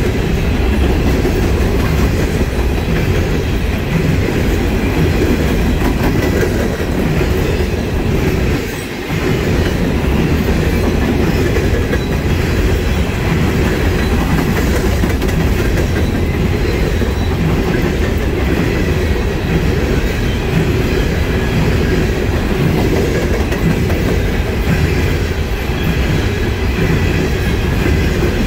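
A long coal train's cars rolling past at close range: a steady, loud rumble of steel wheels on the rails, with a short dip in the noise about nine seconds in.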